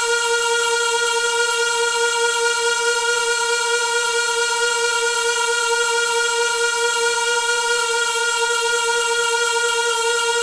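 Noisy water pipe humming: one steady, unchanging pitched tone with strong overtones, like a bowed string held on a single note.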